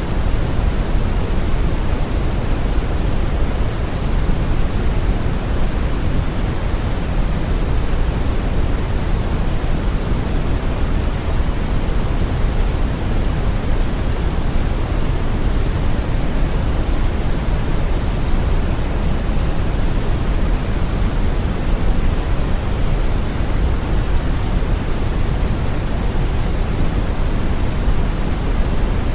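Steady, unbroken brown noise: a deep, even rushing hiss weighted toward the low end.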